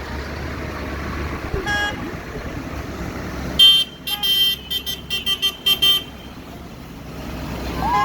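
Tractor engines running past in a road parade, with horn toots: one short toot about two seconds in, then a quick string of loud horn blasts from about three and a half to six seconds.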